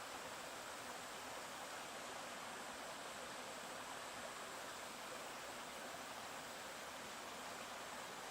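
Stream water running steadily, a constant even rushing with no separate splashes or calls.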